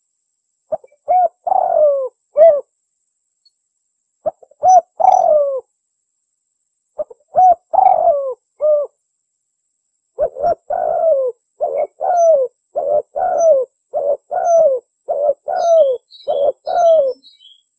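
Spotted dove (tekukur) cooing in repeated phrases: three short groups of coos with pauses between them, then a steady run of about a dozen coos over the last seven seconds. Faint high chirps of a small bird sound in the background, mostly near the end.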